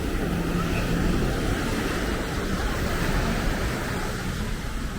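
Ocean surf breaking on a beach: a steady rush of waves.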